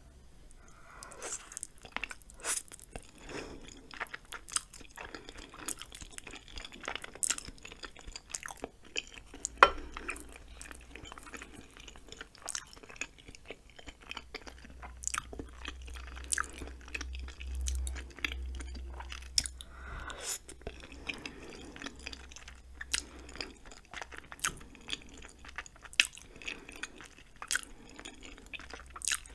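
Close-miked chewing of chewy ramen noodles and rice cakes, with many irregular wet mouth clicks and smacks. One sharp, louder click comes about ten seconds in.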